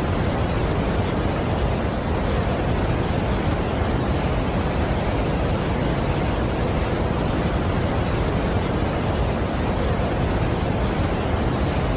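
Steady rushing roar of a large waterfall: an even, unchanging wash of water noise, heaviest in the low and middle range.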